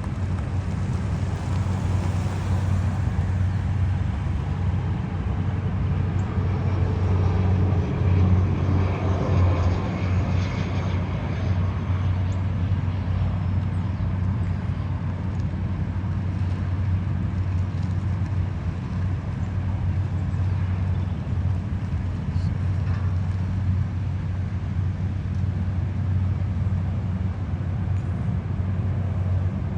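Steady low hum of a running vehicle engine, with a louder swell from about eight to eleven seconds in, like traffic passing.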